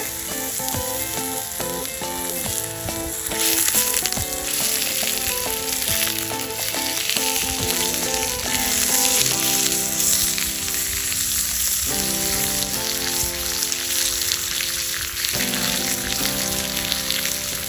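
Food sizzling as it fries in a pan, a steady hiss, over background music.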